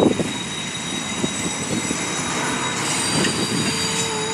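Train passing close by: a steady rumble of wheels on rail with scattered knocks, and a thin high wheel squeal held throughout. A steady pitched tone comes in near the end.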